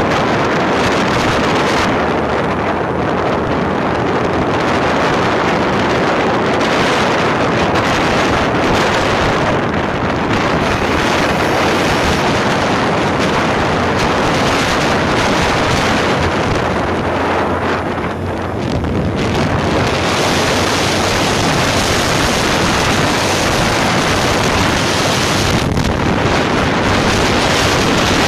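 Steady, loud rushing noise of wind on the microphone, easing briefly about two-thirds of the way through.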